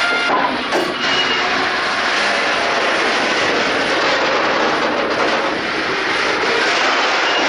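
Indian freight train rolling past: a steady loud rush of wagon wheels on the rails, with a couple of sharp clicks about half a second in.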